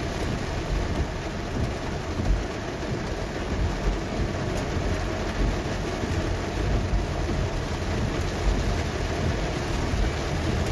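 Heavy rain drumming on a car's roof and windshield, heard from inside the moving car, over a steady low rumble of the car on the wet road.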